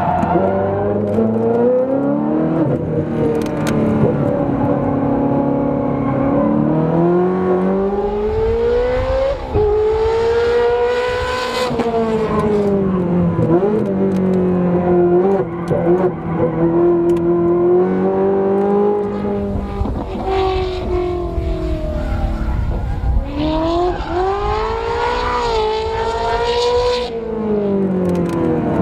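Ferrari 360 Modena's 3.6-litre V8 running through a Capristo aftermarket exhaust, driven hard. The engine note climbs and falls several times as the car accelerates and lifts off, holding fairly steady for a few seconds in the middle.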